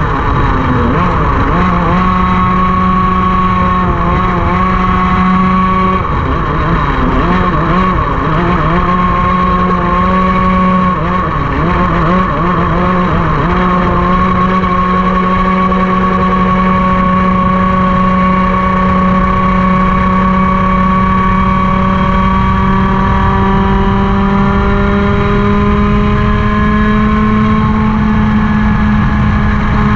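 Racing kart engine running at high revs. Other engines weave in and out with wavering pitch for the first half, then the main engine's pitch climbs slowly over the last several seconds as it accelerates.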